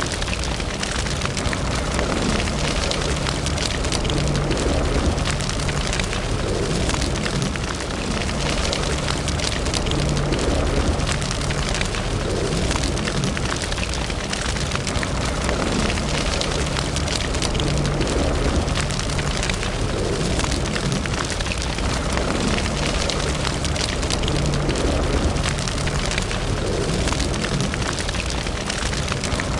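Wood fire in a fireplace burning steadily, with continuous fine crackling and snapping over a low, fluttering rumble of the flames.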